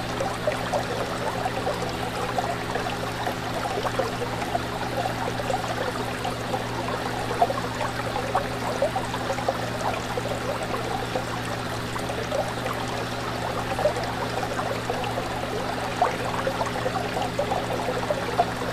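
Fish tank water bubbling and trickling steadily in a fine, continuous patter of small splashes, over a steady low hum.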